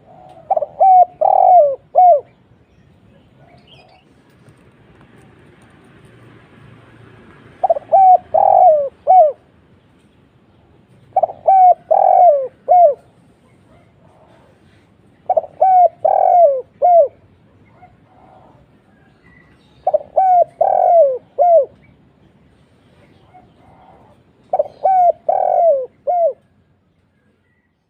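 Spotted dove (tekukur) cooing with a deep voice: six phrases about four seconds apart, each a quick run of four or five short, sliding coos. The calls stop shortly before the end.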